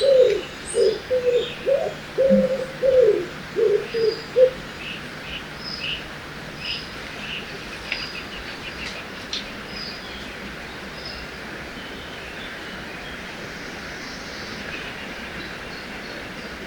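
Forest ambience: a dove cooing in a quick run of low notes that stops about four seconds in, with small birds chirping high and sparse throughout, over a steady hiss of river water.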